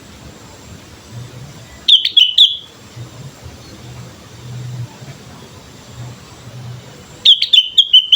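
Sooty-headed bulbul (kutilang) calling: two short, loud phrases of quick chirping notes, one about two seconds in and another near the end, over a faint steady hum.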